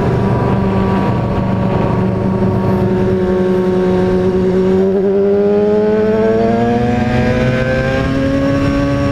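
Kawasaki ZX-6R's inline-four engine running at steady revs under riding wind noise, then rising in pitch over the last few seconds as the bike speeds up.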